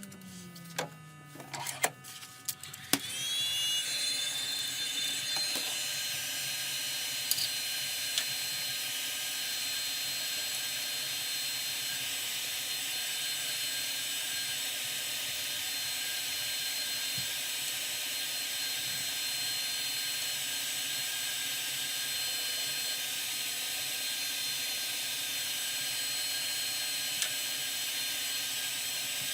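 Woodturning lathe running down with a falling pitch and a few sharp clicks and knocks, then about three seconds in its electric motor spins up with a rising whine and runs steadily with a high, even hiss.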